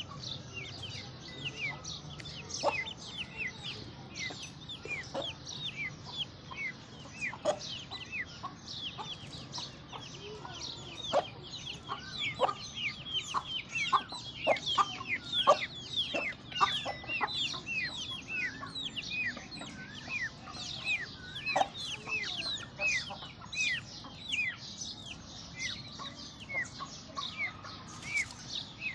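Aseel chickens clucking and peeping: many short, high, falling chirps overlapping without a break, with a few lower calls among them.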